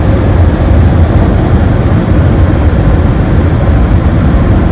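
Automatic car wash dryer blowers blasting air onto the car, a loud, steady rush heard from inside the car, blowing pretty hard.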